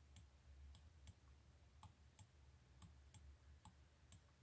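Faint computer mouse clicks, irregular, about two or three a second, over a low steady hum.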